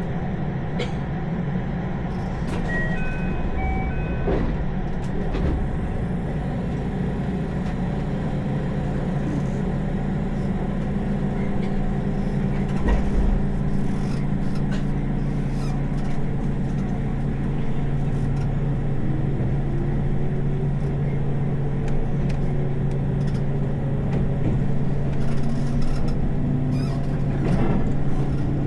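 Electric train running on the rails: a steady low hum with scattered knocks from the wheels and track. A few short high beeps come about three seconds in, and in the second half a motor whine rises in pitch as the train gathers speed.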